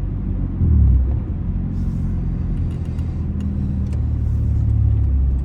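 Straight-piped 2004 Honda Accord 2.4-litre four-cylinder running at driving speed with a low exhaust drone. The note swells briefly just under a second in as the pitch shifts, then holds steady.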